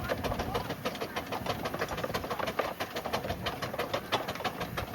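Burrell steam traction engine running, its motion giving a steady, even clatter of sharp ticks several times a second.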